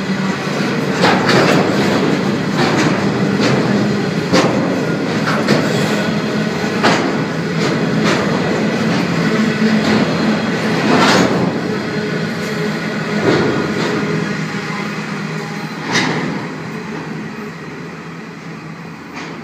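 Freight train rolling past, a steady rumble of wagons with repeated clacks of wheels over rail joints, fading toward the end.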